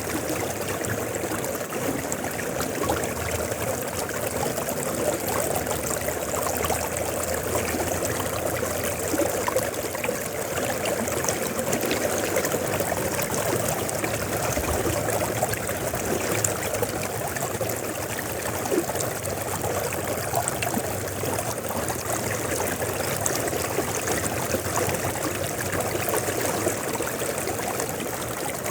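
River water flowing steadily, an even, continuous rush of running water.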